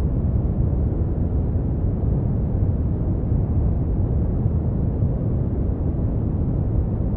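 Brown noise: a steady, deep rumbling hiss with its energy in the bass and little treble, unchanging throughout.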